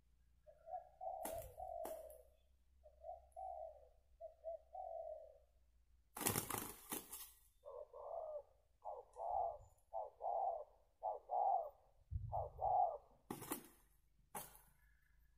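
Spotted doves cooing in repeated phrases, then a quicker run of about five coos. A loud rustling burst about six seconds in and a couple of sharp noises near the end break in among the calls.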